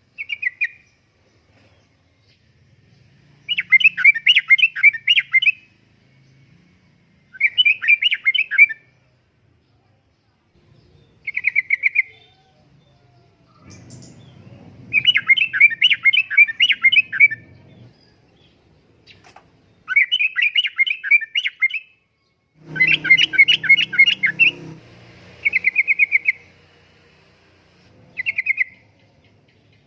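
Yellow-vented bulbul singing: about ten short, rapid, bubbly chattering phrases, some brief and some up to two seconds or more, repeated every few seconds with pauses between. A faint low rumble sits under two of the phrases.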